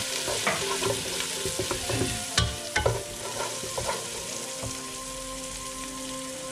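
Sliced onions, garlic and bruised lemongrass sizzling in hot oil in a nonstick pot as a wooden spatula stirs and scrapes them, with a couple of sharp scrapes about two and a half seconds in.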